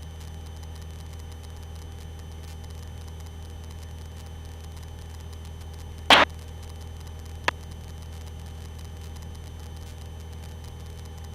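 Aerobatic light aircraft's engine droning steadily in the cockpit, a low even hum. A short loud burst of noise comes about six seconds in, and a faint click a second later.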